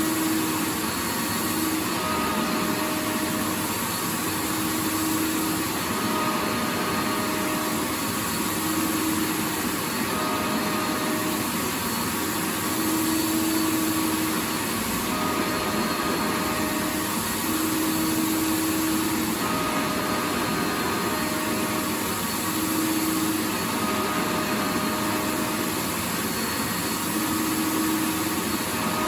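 Vacuum cleaner running continuously: a steady rushing hum with a faint motor whine that fades in and out every second or two.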